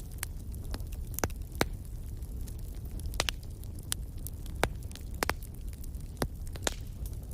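Wood fire burning in a fireplace: irregular sharp crackles and pops, about a dozen, over a steady low rumble of the flames.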